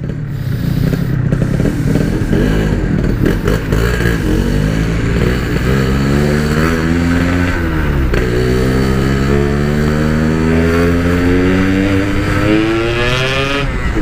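Yamaha RX-King two-stroke single-cylinder engine under hard acceleration, its pitch climbing steadily through one gear, dropping at a shift about halfway through, then climbing again until another shift near the end. The engine is completely stock.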